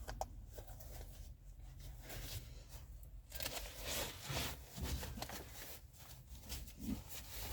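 Rustling, scraping and handling noises of belongings being gathered up and packed, in short irregular bursts.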